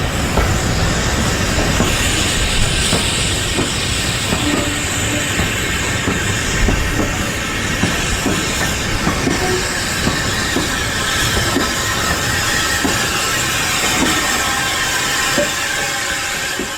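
Steam-hauled train running along the line: wheels clicking over the rails against a steady hiss.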